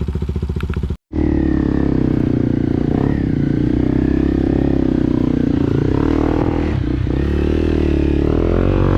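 Motorcycle engine running under way, its pitch rising and falling gently with the throttle; the sound cuts out completely for a moment about a second in.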